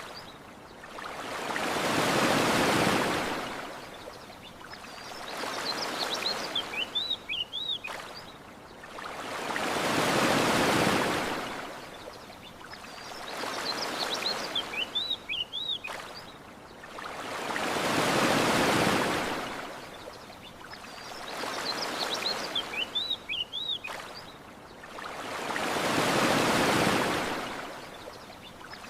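Ocean waves washing onto a shore, one swelling rush of surf about every eight seconds, with a few short high bird chirps in the lulls between waves.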